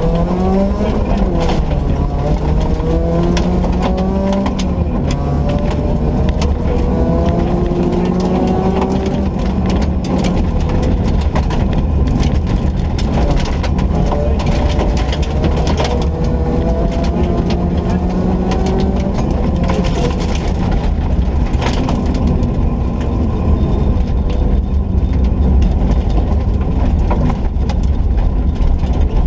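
Ford Ka rally car's engine accelerating hard through the gears on a rally stage, its pitch climbing and then dropping at each gear change, over a heavy rumble of road and body noise with scattered sharp clicks and knocks.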